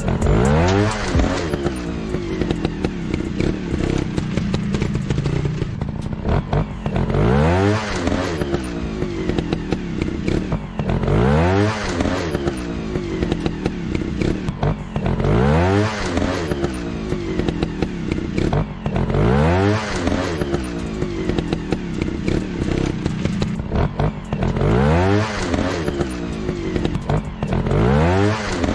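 Dirt bike engine revving up and falling back over and over, about every four seconds, as the throttle is worked on rough ground, with scattered knocks and clatter.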